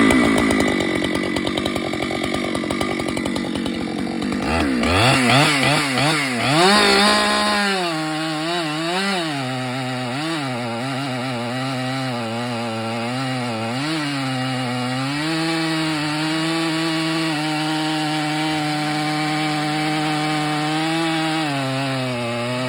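Husqvarna 592 XP two-stroke chainsaw with a sharp full-comp semi-chisel chain, cutting through a large dead gum trunk in a time trial. It starts at high revs, swings up and down in pitch for a few seconds, then settles to a lower, steadier pitch as it works in the cut.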